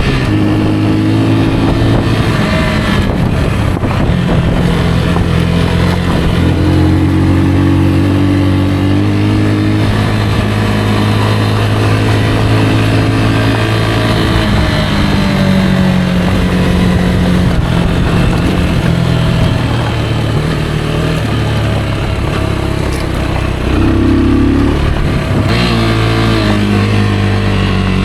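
Rieju Aventura 125's single-cylinder engine running under way, its pitch holding for a few seconds at a time and then stepping up or down as the revs change. Wind and road noise wash over it.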